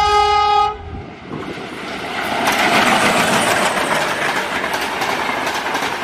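Diesel locomotive horn held on one steady chord, cutting off about a second in; then a long passenger train rushing past at speed, its wheels clattering over the rail joints in a rapid run of clicks that grows louder.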